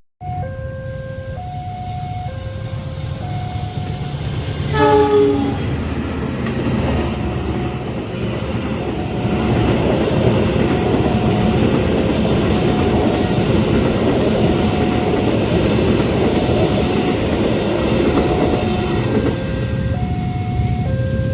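Level-crossing warning bell sounding in two alternating tones about once a second, with a locomotive horn sounding briefly about five seconds in. Then the rumble of a passing train on the rails grows louder and carries on under the alarm.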